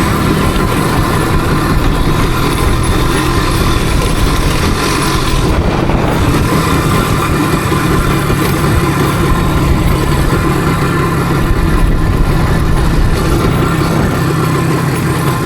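Motorcycle engine running steadily while riding, at an even pitch with a brief dip in the higher noise about five and a half seconds in.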